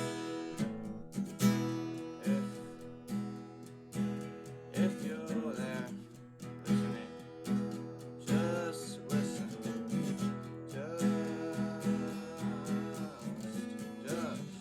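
A song: an acoustic guitar strummed in a steady rhythm, with a singing voice over it from about a third of the way in.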